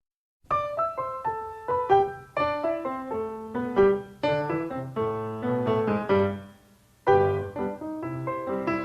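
Piano music: notes and chords struck one after another, each fading away. It fades out briefly about two-thirds of the way in, then starts again.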